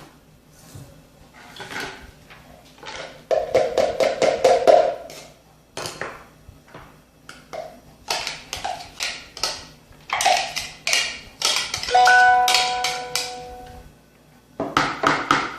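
Kitchen utensils and containers being handled while the finely chopped vegetables are dealt with: a run of scrapes, clicks and knocks, with a short ringing tone about twelve seconds in.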